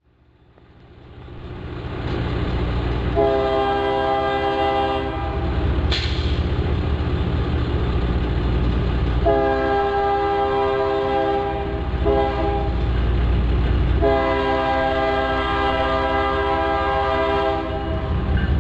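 Freight train diesel locomotive sounding its air horn in four blasts, the last the longest, over the steady low rumble of the engines and train. The rumble fades in at the start, and there is a brief sharp sound about six seconds in.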